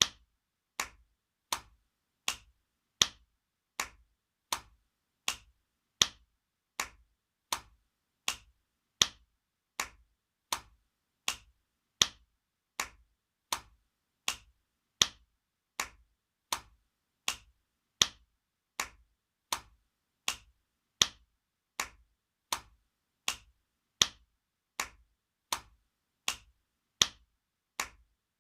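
Spanking sound effect: sharp slaps of a hand, repeating evenly a little over once a second, with every fourth slap louder.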